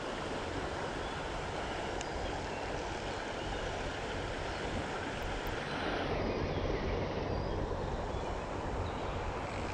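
Steady rushing of flowing creek water. About six seconds in the higher hiss falls away, leaving a lower rush.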